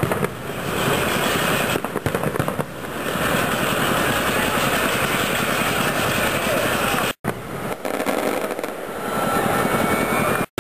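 Fireworks going off in a dense, continuous run of crackling bangs, dropping out abruptly twice, once about two-thirds of the way through and once just before the end.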